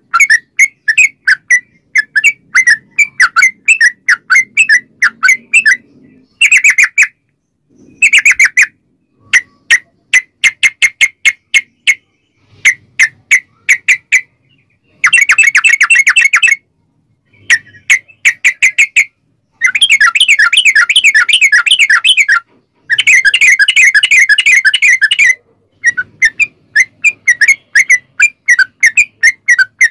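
Yellow-vented bulbul (trucuk) singing in quick chattering runs of sharp repeated notes. Several of the runs are long unbroken rolls of a couple of seconds each, the 'ropel' song used to lure other trucuk into answering.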